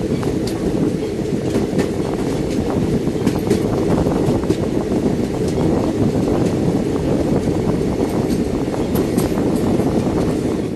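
Passenger train running at speed, heard out of an open door or window: a steady rumble of the wheels on the rails with scattered clicks and rattles, and wind buffeting the microphone.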